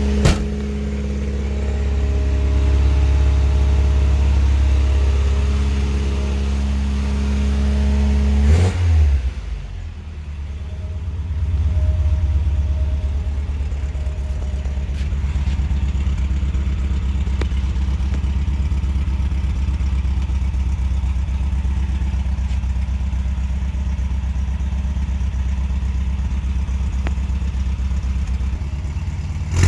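Toyota 2T-C four-cylinder engine running through a newly fitted exhaust, steady and low. About a third of the way in there is a brief blip and the pitch drops, after which the engine settles into an even, pulsing run.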